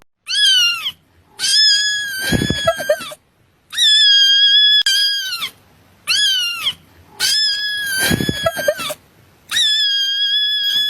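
Kitten meowing: high, drawn-out meows in a repeating pattern of one short falling meow followed by two long ones, heard twice over, with a low bump under the second meow each time.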